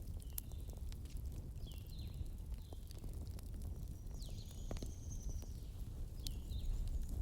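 Wood fire burning in a fireplace: a low steady rumble with scattered sharp crackles and pops. Several short high squeals that drop in pitch, and about four seconds in one longer high whistle, come from the burning logs.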